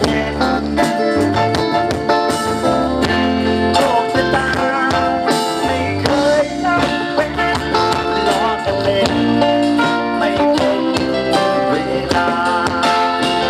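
Band music: an instrumental passage led by guitar over a steady drum beat.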